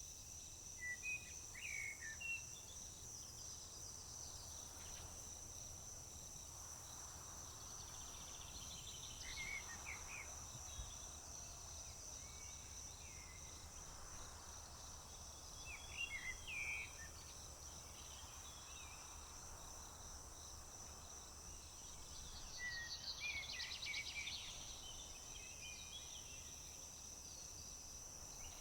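Steady high-pitched chorus of crickets, with a bird calling in short phrases about four times.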